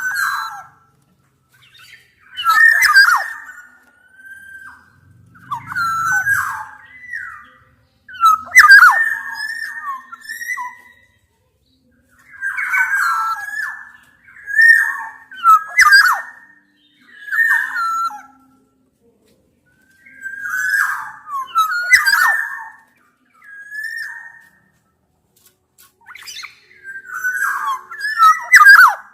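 Black-naped orioles (kepodang) calling again and again in short, harsh, scratchy bursts, each about a second long with brief pauses between: agitated, challenging calls of the kind played as a lure to make a caged oriole answer.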